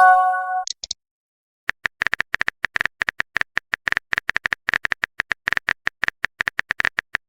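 Chat-app sound effects: a short multi-tone message chime at the start, then after a brief pause a long run of quick, uneven keyboard typing clicks.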